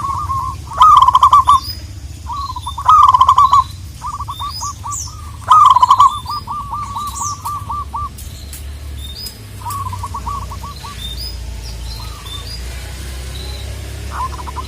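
Zebra doves (perkutut) calling: strings of fast staccato cooing notes, three loud bursts in the first six seconds and fainter strings after. Other small birds chirp faintly at a higher pitch.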